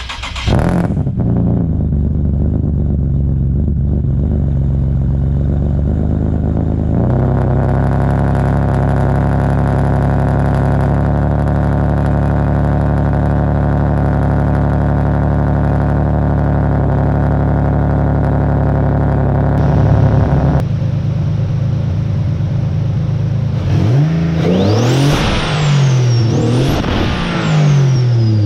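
Single-turbo Nissan 370Z's 3.7-litre V6 running at a steady note, then, after a cut about twenty seconds in, revving up and down several times with a high whistle that rises and falls with each rev.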